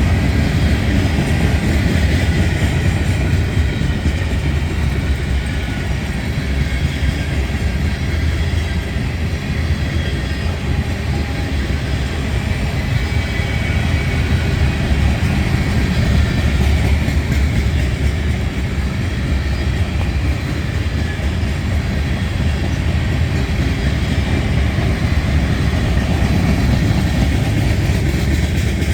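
CSX freight train rolling past, a steady loud rumble of steel wheels on rail that goes on without a break.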